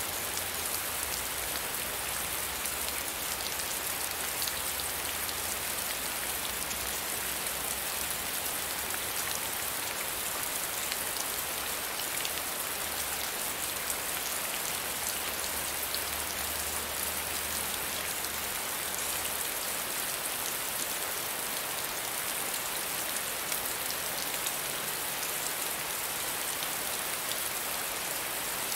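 Rain falling steadily on broad banana and palm leaves: a dense, even hiss of rain with many small drop ticks.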